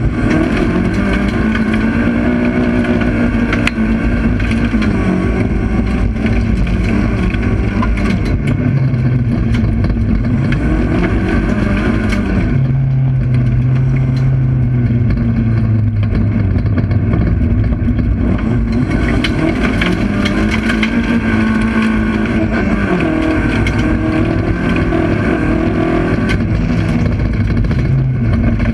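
Race car's engine heard from inside the cabin, running hard the whole time, its pitch climbing and dropping over and over as the car accelerates and lifts off, with a steadier stretch about halfway through.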